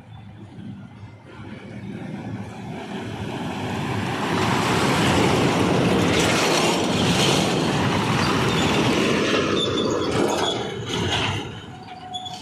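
A heavy truck passing at speed: engine and tyre noise builds up, stays loud for several seconds, then falls away quickly near the end.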